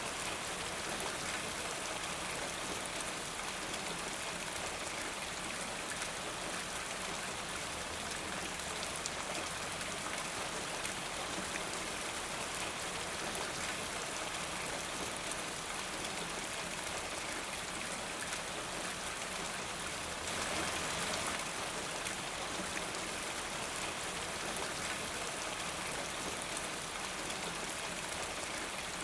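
Steady rain falling, an even hiss of many drops with no single strike standing out, swelling slightly for a moment about two-thirds of the way through.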